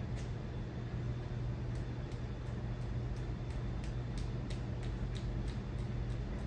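Casablanca Delta II ceiling fan running, its motor giving a steady low hum, with faint light clicks now and then.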